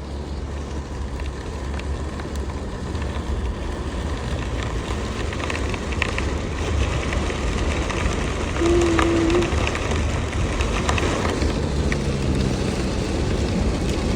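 Road and engine rumble heard from inside a car moving at speed through a storm, growing gradually louder, with scattered light taps of rain on the windshield.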